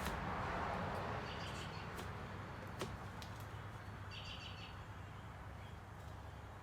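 Two short bursts of quick, high bird chirps over a steady low background hum, with a single sharp click a little before the middle.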